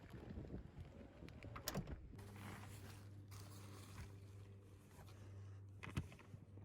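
Faint clicks and rustles, then a steady low hum that starts about two seconds in and runs on, with a single sharp click near the end.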